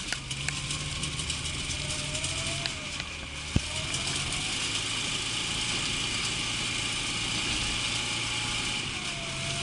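Lada Zhiguli car engine running steadily, its note rising and falling slightly, with one sharp click about three and a half seconds in.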